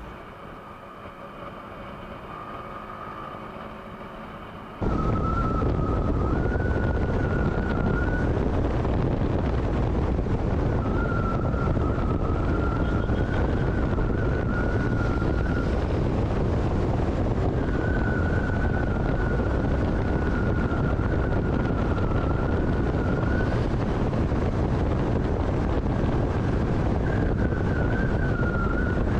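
Riding sound from a Yamaha R15 V4, a 155 cc single-cylinder motorcycle, at speed: dense wind rush on the microphone with a high whine that wavers slightly in pitch. Everything jumps suddenly louder about five seconds in.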